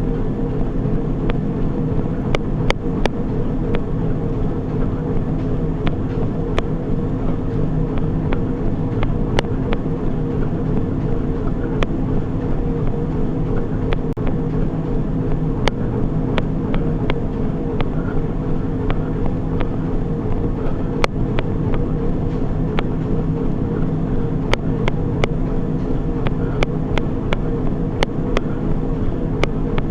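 Treadmill running steadily: an even motor and belt hum with a few scattered light clicks.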